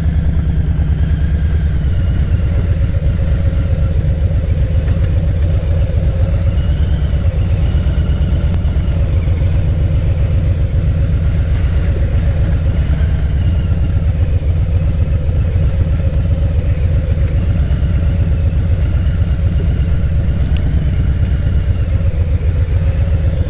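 Harley-Davidson Softail Low Rider's Milwaukee-Eight V-twin engine running at low, steady revs.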